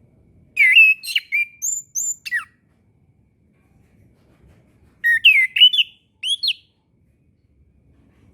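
Orange-headed thrush singing two short phrases of quick, varied whistled notes, the first about half a second in and the second about five seconds in.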